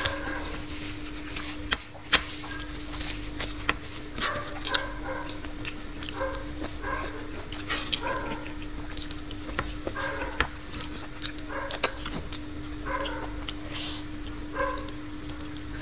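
Close-miked eating of fried chicken with the fingers: wet chewing, lip smacks and sharp mouth clicks, with short squeaky pitched blips every second or so over a faint steady hum.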